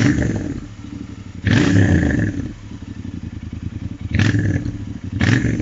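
Royal Enfield Interceptor 650's parallel-twin engine idling through its exhaust, blipped four times: once at the start, a longer blip about a second and a half in, and two short ones near the end, each falling back to idle.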